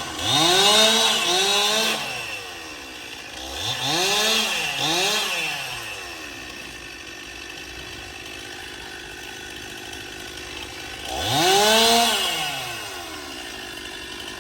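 Stihl two-stroke chainsaw idling, with the throttle blipped five times. Each blip makes the engine's pitch rise and fall back. The revs come in three groups: two near the start, two a few seconds later, and one near the end.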